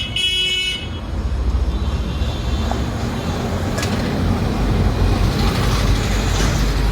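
Heavy diesel vehicle engine running, a steady rumble that swells a little, after a brief high-pitched tone in the first second.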